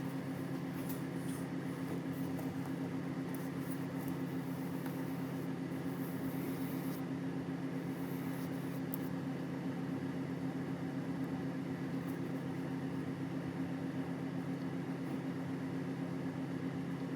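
A steady low machine hum, like a fan or small motor. Faint scratching, like pencil strokes on paper, comes and goes over it in the first half and stops about halfway through.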